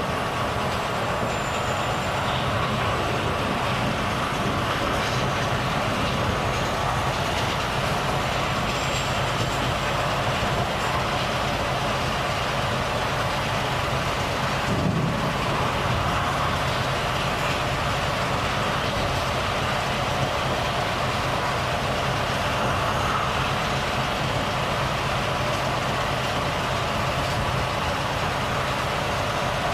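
Volvo FH truck engine running steadily on the move, with continuous road and tyre noise, and a brief low surge about halfway through.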